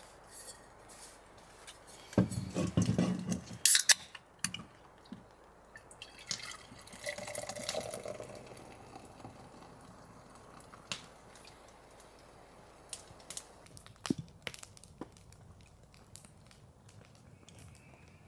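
Water dripping in scattered drops, with a louder bout of knocks and clatter about two to four seconds in.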